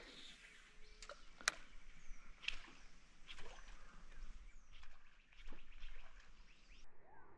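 Birds calling in short falling chirps, with sharp clicks about once a second.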